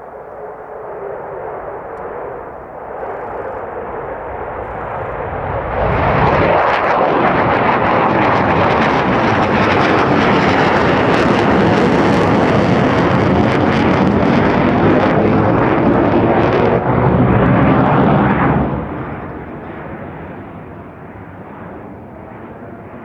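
Military jet making a low pass, most likely an F-4EJ Phantom II with twin J79 turbojets. The noise builds for about six seconds, then holds very loud and crackling for about twelve seconds with a swirling, phasing tone. It drops off fairly quickly and fades as the jet departs.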